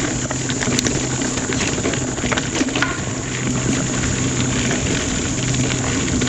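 Mountain bike rolling along a dirt singletrack trail: steady tyre and wind noise with scattered clicks and rattles.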